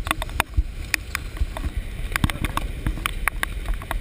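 Muffled low rumble with many irregular clicks and knocks: handling noise on a handheld GoPro's waterproof case.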